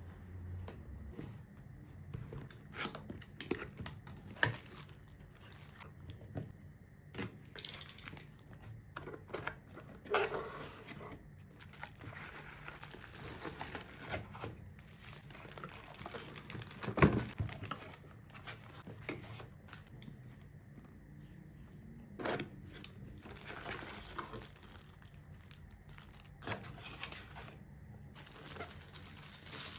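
Packaging being handled: paper and plastic crinkling and tearing, with scattered light taps and one sharper knock about halfway through.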